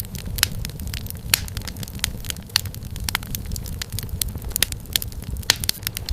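Wood fire in a fireplace crackling: irregular sharp pops and snaps, several louder ones, over a steady low rumble of burning.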